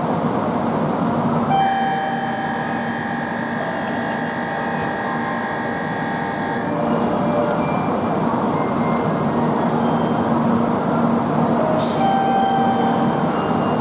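Shinkansen platform noise around a 700 series train, a dense steady rumble and hiss. About a second and a half in, a steady high-pitched tone made of several pitches sounds for about five seconds and then stops; near the end there is a short sharp noise, then fainter tones.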